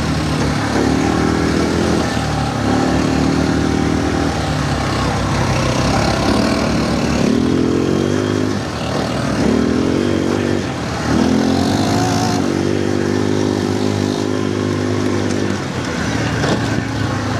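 Quad bike (ATV) engine running under load on a rough trail, its pitch rising and falling in stretches of a second or more as the throttle is opened and eased off, over a constant rushing noise.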